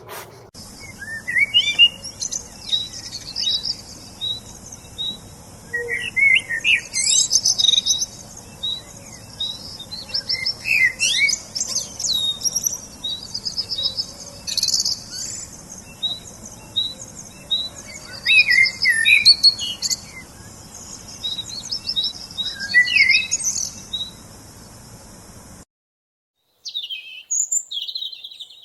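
Several songbirds chirping and calling: short repeated high notes and quick falling whistles over a steady high hiss. It cuts off abruptly near the end, followed by a few brief calls.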